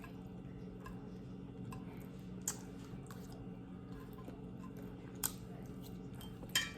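Faint chewing of food close to the microphone, with scattered small mouth and utensil clicks. There are three sharper clicks: about two and a half seconds in, about five seconds in and near the end. A steady low hum runs underneath.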